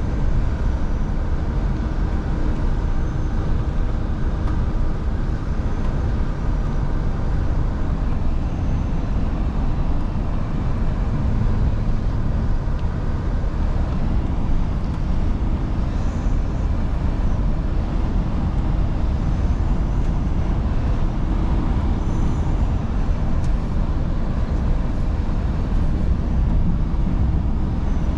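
Scania V8 diesel truck running steadily on the road: a constant engine drone with tyre and road noise.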